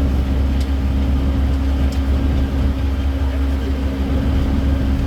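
Road-going tourist train's engine running with a steady low drone as it drives.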